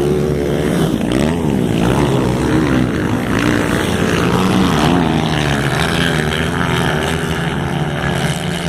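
Several motocross bikes racing, their engines revving up and down in pitch with gear changes; over the last few seconds one engine holds a steady pitch.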